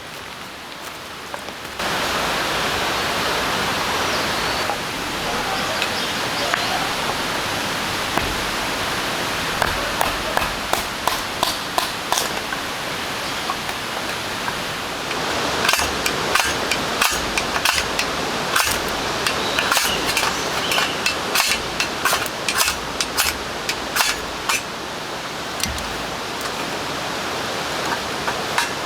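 Steady rain falling, a hiss that grows louder about two seconds in, with many sharp taps and pops scattered over it, thickest in the second half.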